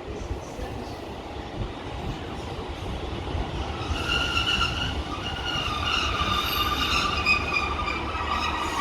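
Diesel multiple unit passenger train rumbling along the track, getting louder, with high wheel or brake squeal setting in about halfway through.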